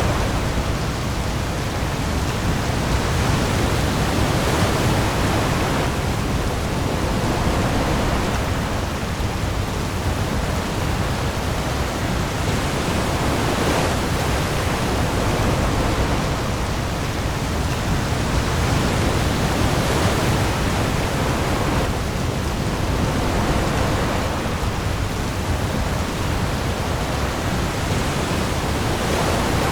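Storm ambience of heavy rain falling on the sea, a dense steady hiss with a deep low rumble beneath it, swelling gently every few seconds like passing waves.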